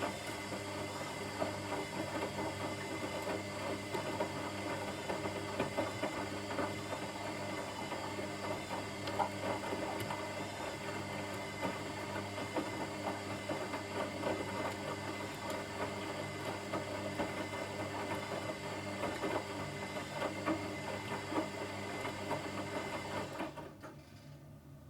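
Washing machine running, a steady motor hum with a light rattle from the drum, which cuts off suddenly near the end, leaving only a faint hum.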